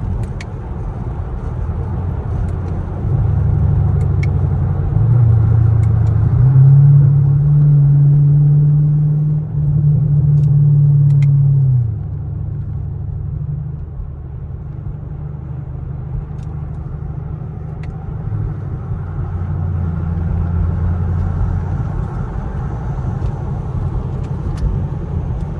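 Chevrolet Camaro SS 6.2-litre V8 with a muffler delete, heard from inside the cabin while driving: a low exhaust drone. From about three seconds in it swells louder for several seconds, its hum stepping up in pitch as the throttle is pressed, then falls back to a quieter cruise.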